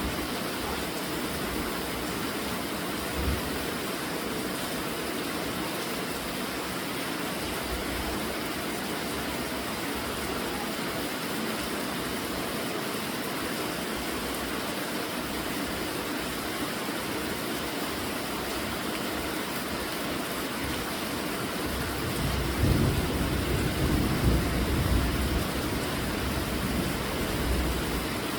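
Steady rain falling, an even hiss. About three-quarters of the way through, a low rumble swells in and carries on to near the end.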